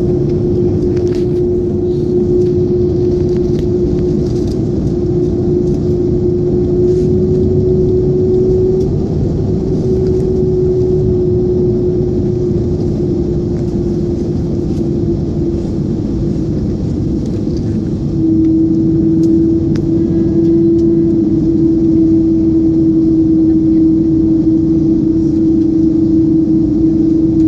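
Airbus A330 jet engines and airframe rumble heard inside the passenger cabin: a dense, steady roar with one strong steady hum running through it, stepping up in loudness about eighteen seconds in.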